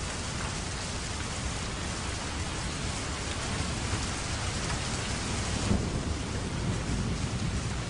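Steady rain hissing, with a low rumble of thunder swelling up about six seconds in.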